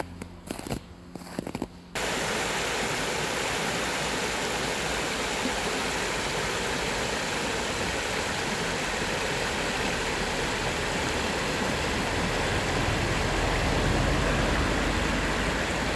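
A few faint footsteps, then a steady rushing noise that starts abruptly about two seconds in and stays loud and even.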